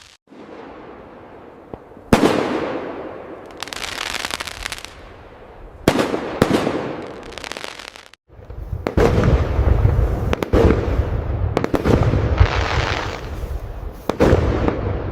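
Fireworks display: separate aerial shell bursts go off about two seconds and six seconds in, each bang fading into a crackling tail. From about eight seconds in comes a dense barrage of overlapping booms and crackle over a deep rumble.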